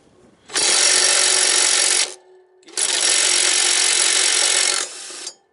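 Impact wrench hammering in reverse on a mower blade bolt, in two long runs with a short pause between, trying to break the tight bolt loose.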